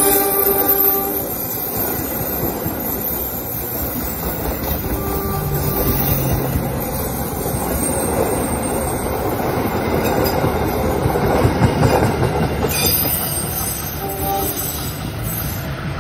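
Passenger train running on the rails, a steady rumble and rattle of wheels on track. A horn-like tone fades out about a second in.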